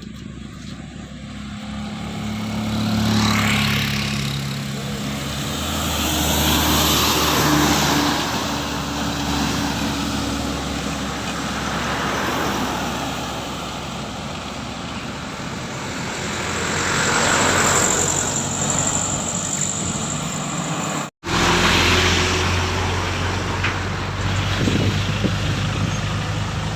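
Road traffic on a hill: vehicles, trucks among them, pass one after another, each swelling and fading, over a steady low engine hum. The sound drops out briefly about three-quarters of the way through, and afterwards a nearer engine hum holds steady.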